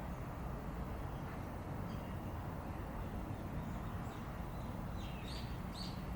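Steady low outdoor rumble, like distant traffic or wind, with a few short high bird chirps in the second half, the two clearest near the end.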